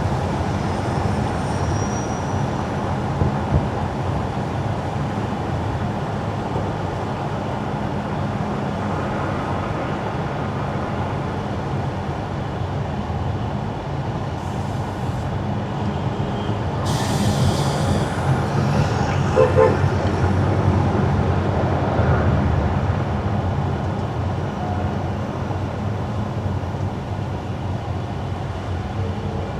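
Car driving on wet, slushy city asphalt: steady tyre and road noise over a low engine hum. A louder rushing hiss rises about 17 seconds in and fades a few seconds later.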